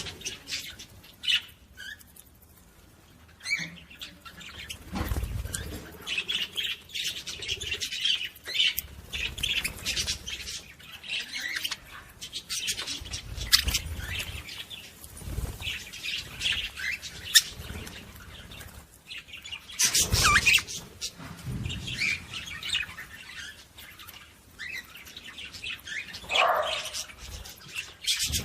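Small pet parrots chirping and squawking continually in short calls, with a few dull thumps and clicks among them.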